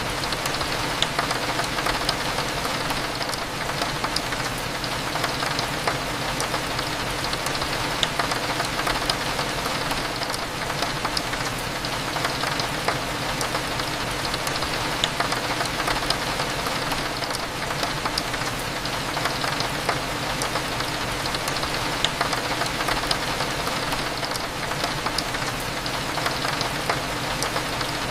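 Steady rain hitting a window, with many small sharp drop ticks scattered through an even hiss, over a low steady rumble.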